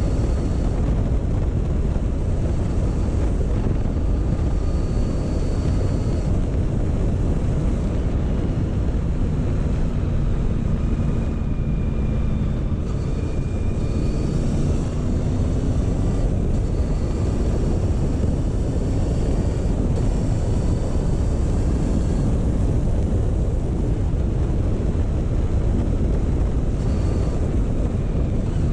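Motorcycle engine running steadily at a moderate pace under a heavy rush of wind on the microphone, its pitch drifting slightly up and down with the throttle.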